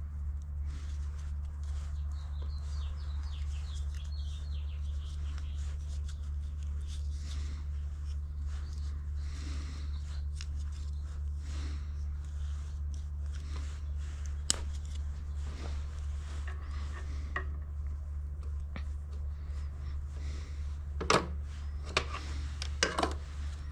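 Scattered light clicks and rubbing of parts being handled, with a couple of sharper clicks near the end, over a steady low hum.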